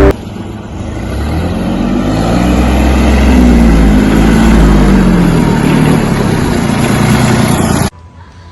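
Old tractor engine running and revving, its pitch rising and falling as it builds in level. It cuts off abruptly near the end.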